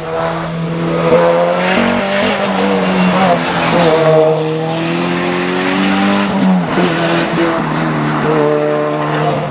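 A hill-climb race car's engine running hard at high revs, its pitch climbing and then dropping at gear changes about two seconds in and again past six seconds.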